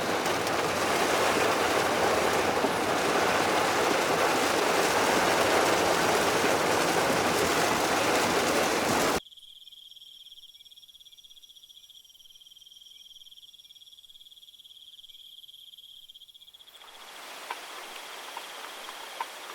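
A loud steady rush of noise that cuts off abruptly about nine seconds in, giving way to a steady high-pitched insect trill in the rainforest. A faint hiss and a few soft ticks come in near the end.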